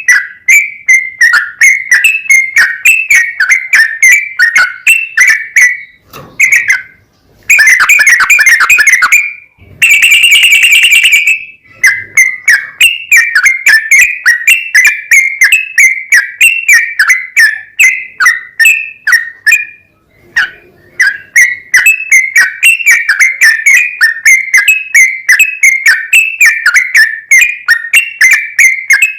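Yellow-vented bulbul (trucukan) song: a long run of quick, loud chattering notes, about three or four a second, broken by two short pauses, with two denser, rattling trills about a third of the way through.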